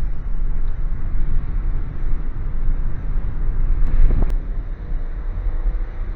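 A car driving, with a steady low rumble of engine and road noise heard from inside the cabin. Two brief sharp clicks come about four seconds in.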